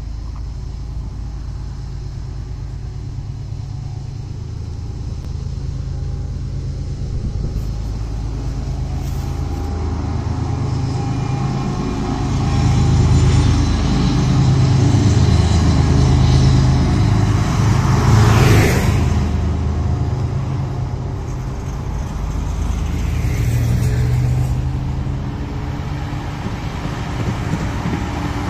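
Diesel locomotives of a Kansas City Southern de México freight train running across a railway overpass: a low, steady engine drone that builds to its loudest around the middle as the locomotives pass, then eases off as the container cars follow. Road vehicles pass close by, one with a sharp whoosh about two-thirds of the way through.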